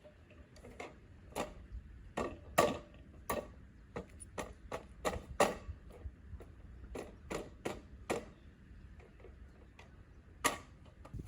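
A series of irregular sharp clicks and knocks, one to three a second, over a faint steady background, with one louder knock near the end.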